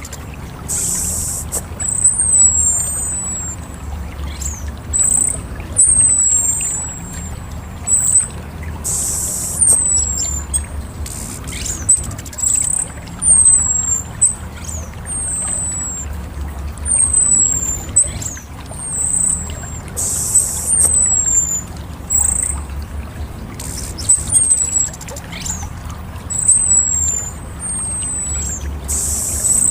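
Orange-headed thrush calling: a run of short, high, thin whistled notes, each sliding downward, repeated about once or twice a second. A few brief hissing bursts come in about a second in, near 9 s, near 20 s and near the end. A steady low rumble runs underneath.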